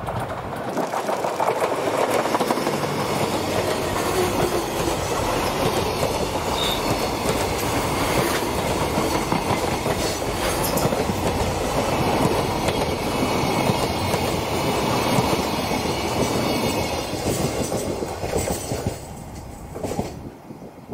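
DD200 diesel-electric freight locomotive passing close, followed by a string of Koki container flatcars clattering over the rail joints. The noise falls away near the end as the last wagons go by.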